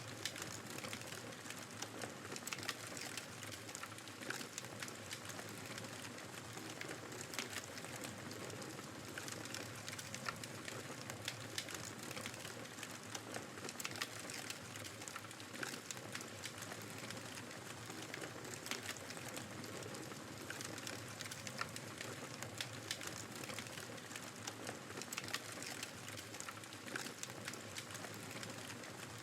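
Wood fire crackling in a fireplace, with many small irregular pops and snaps, over the steady rushing noise of blizzard wind.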